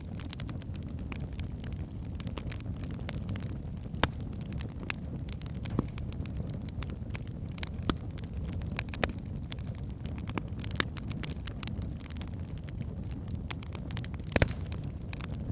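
Wood fire burning in a fireplace: a steady low rumble of flames with frequent sharp crackles and pops from the burning logs, a few louder pops standing out.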